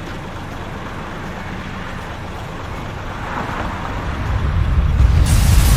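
A motor vehicle's rumbling noise, steady at first, then growing louder and heavier over the last two seconds, with a hiss joining near the end.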